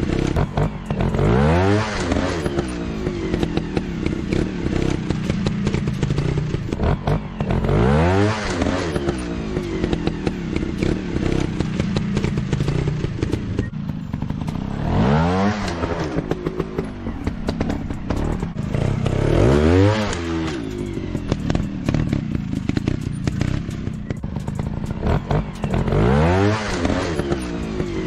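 Trail motorcycle engine running with clatter, revved up sharply and back about five times, every five to seven seconds.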